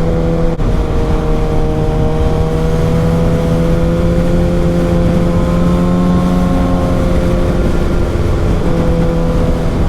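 Sport motorcycle engine running at a steady cruise while riding, with low wind rumble. The engine note climbs slightly, then eases off a little near the end.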